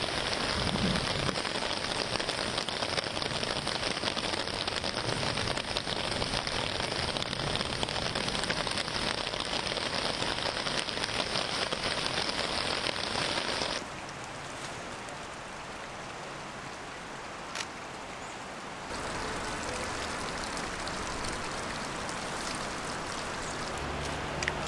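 Steady hiss of heavy rain falling, quieter from about halfway through and rising again a few seconds later, with a single brief click.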